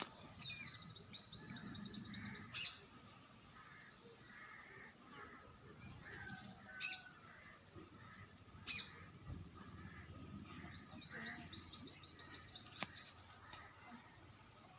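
Songbird singing: a fast, high trill lasting about two seconds, a couple of short chirps, then a second trill that rises slightly in pitch.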